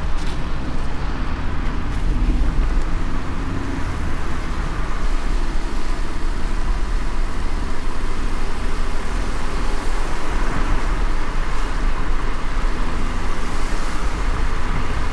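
A car driving in light rain: steady road and tyre rumble with a low engine hum.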